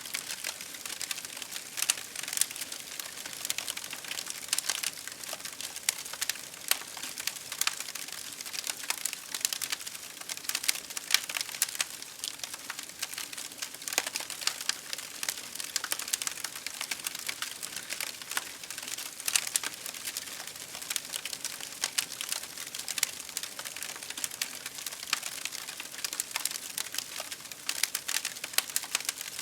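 Wood campfire crackling: dense, irregular snaps and pops over a steady high hiss.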